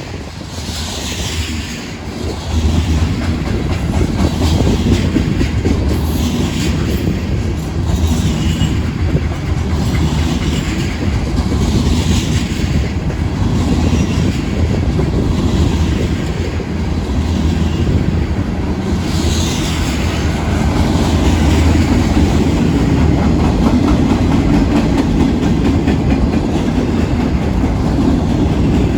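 Freight train cars rolling past, a loud steady rumble with clickety-clack from the wheels over the rails and short, falling high screeches from the wheels every couple of seconds. It gets louder about two seconds in.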